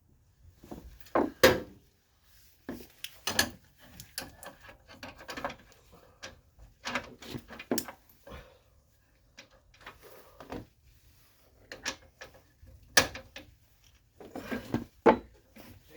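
Irregular knocks, clatter and rubbing of hand tools being handled, with two sharper knocks about a second and a half in and near the end.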